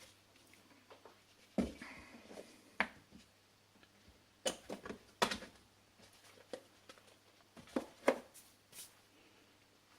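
Light knocks and clicks of small metal parts and tools being handled while a turbocharger is put together, coming irregularly with a few sharper taps, over a faint steady hum.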